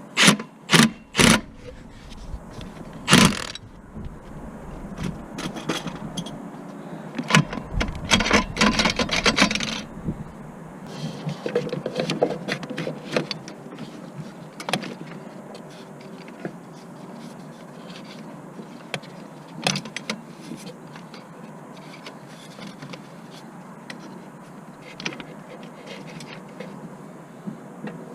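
Irregular clinks, knocks and scrapes of hard objects being handled, busiest in the first ten seconds, with a louder knock about three seconds in and only occasional clicks after that.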